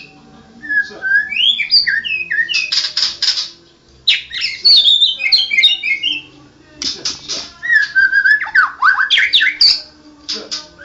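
White-rumped shama (murai batu) singing a fast, varied song of whistled notes, quick trills and glides, broken by harsh rattling chatters about three seconds in and again about seven seconds in.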